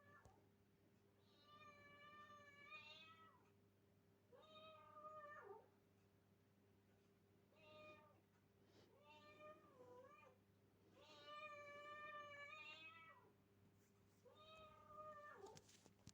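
A cat meowing over and over, faint: about six drawn-out meows, each a second or two long, with short pauses between them.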